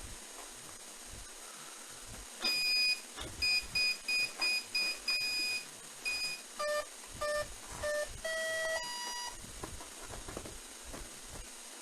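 Electronic beeps from an electric radio-control model's electronics as they are powered up: one long high beep, a quick run of short high beeps, then three lower short beeps and two longer tones stepping up in pitch, typical of a speed controller arming.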